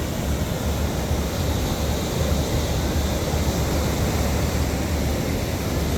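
Steady wind buffeting the microphone with a low rumble, over the wash of ocean surf.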